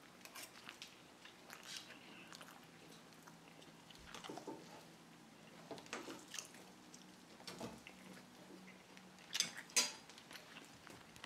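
Faint wet mouth sounds of someone chewing a bite of grilled grouper, with a metal fork clicking against a ceramic plate twice near the end.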